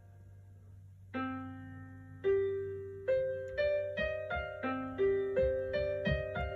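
Simple piano melody played note by note, each note ringing and fading. After a near-empty first second come two slow single notes, then from about three seconds in a steady run of notes at about two a second.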